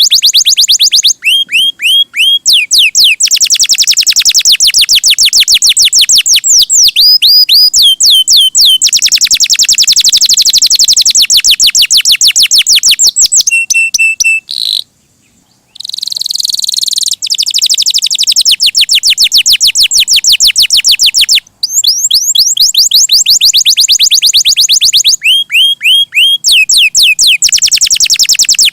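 Domestic canary singing loudly and without let-up: long trills of fast repeated notes, the phrases shifting in pitch, with a break of about a second halfway through.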